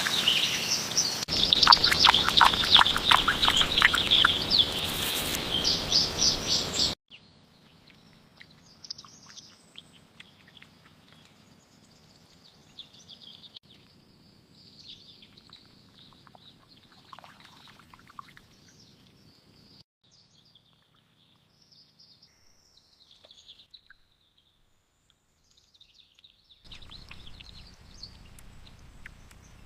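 Birds chirping and calling: loud, dense chirping for about the first seven seconds, then after a sudden cut only faint, scattered chirps.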